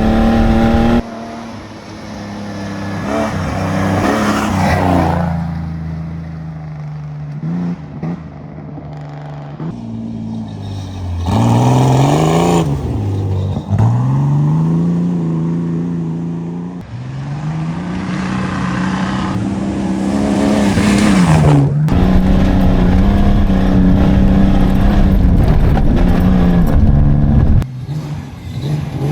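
Old pickup truck's engine worked hard over a dirt rally course, revving up and falling back again and again as it is accelerated and let off. It drops off sharply about a second in and again near the end.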